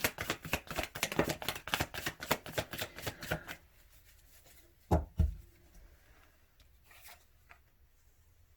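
A deck of tarot cards being shuffled by hand, a rapid pattering of cards that stops about three and a half seconds in. About five seconds in come two knocks, then a few faint card clicks.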